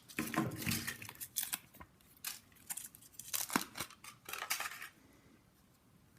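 Hands unwrapping a Kinder Surprise chocolate egg: foil rustling and small sharp clicks as the soft, melted egg is worked open, dying away about five seconds in.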